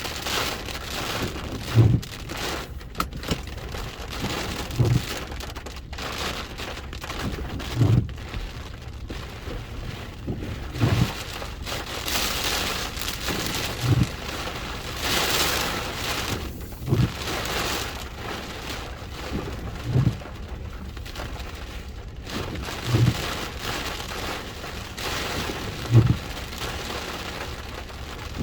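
Heavy hurricane rain and wind, swelling in a gust about halfway through. A short low thump repeats evenly about every three seconds.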